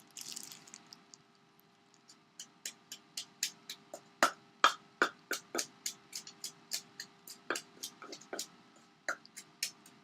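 Pestle pounding in a mortar to crush palm sugar with lime and long beans for som tam. Sharp, rhythmic knocks at about three a second begin about two seconds in, after a quieter stretch.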